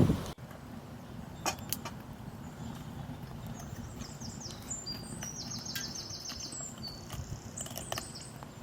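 A small bird singing high, quick notes that run into a fast trill about five to seven seconds in, over a low steady outdoor rumble with a few sharp clicks.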